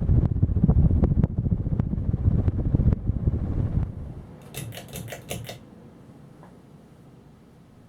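Ceiling fan's airflow buffeting the microphone: a low rumble with light ticks that dies down about four seconds in. Right after, there is a quick run of about six ringing clicks, then only a faint hiss.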